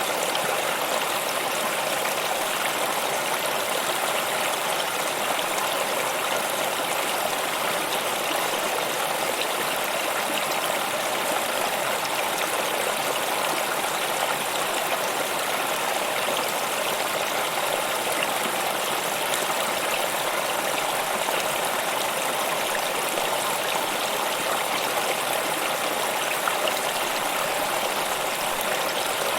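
Stream water flowing, a steady, unchanging sound with no breaks.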